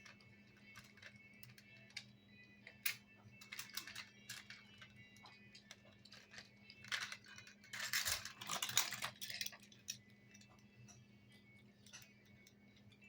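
Plastic toy construction vehicles being handled: scattered sharp clicks and knocks, with a denser clattering stretch about seven to nine and a half seconds in.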